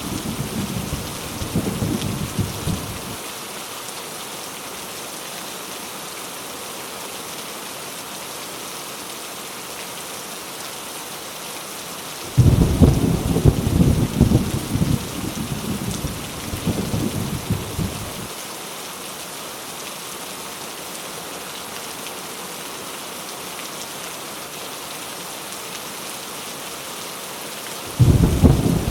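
Heavy rain falling steadily, with deep rolling thunder. One rumble dies away in the first few seconds, another breaks in suddenly about twelve seconds in and rolls on for about six seconds, and a third starts just before the end.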